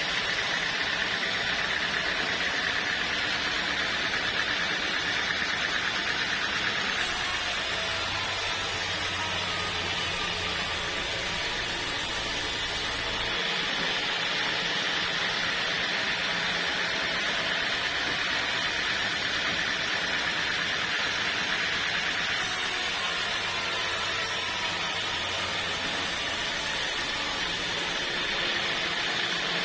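Steady running noise of machinery with a constant hiss and whine. The sound changes abruptly about seven seconds in, again near thirteen seconds, again past twenty-two seconds and once more near the end.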